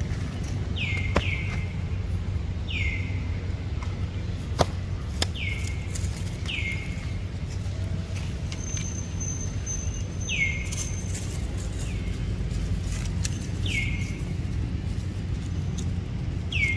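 A bird calling again and again: short whistles that slide down in pitch, every one to three seconds, sometimes two in quick succession. Under them runs a steady low rumble, with a few soft clicks.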